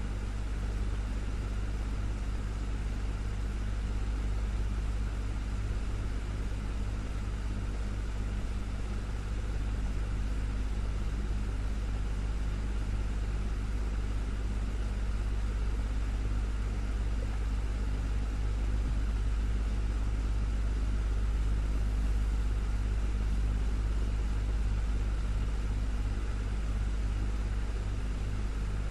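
Desktop fan running steadily: an even, deep motor hum with a light rush of air.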